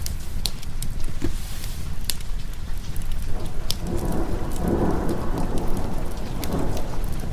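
Steady rain with a roll of thunder that swells from about three seconds in and fades near the end, over a constant low rumble. Sharp crackling pops from a fireplace fire are scattered throughout.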